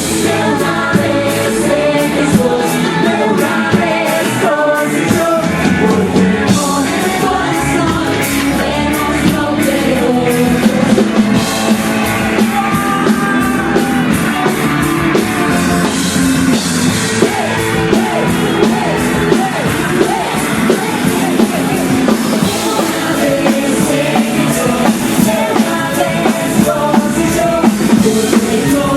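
A rock band playing with a singer: drums, guitars and voice at a steady loud level throughout.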